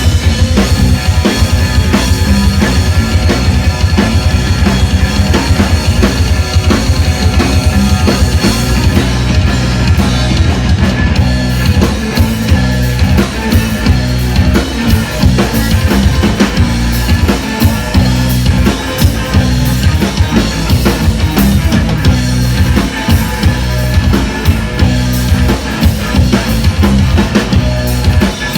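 Live band playing loud rock music with a drum kit, heavy bass and guitars; the drumming grows busier about ten seconds in.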